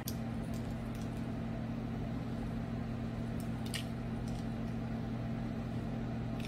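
Steady low hum of a kitchen appliance, with a couple of faint light taps about halfway through.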